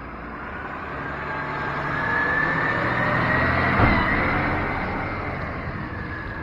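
A motor vehicle drives past. Its engine and a whine grow louder to a peak about four seconds in, then fade as it moves away.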